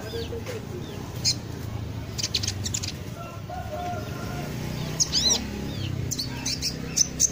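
Small bird giving sharp, high chirps in several short clusters, over a low steady hum.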